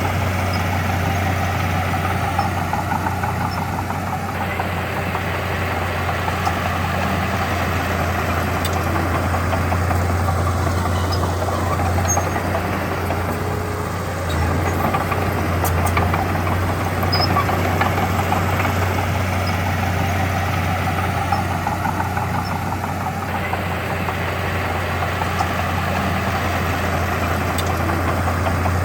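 Heavy diesel engine of earthmoving machinery running steadily with a deep hum, rising and falling gently every several seconds as the load changes.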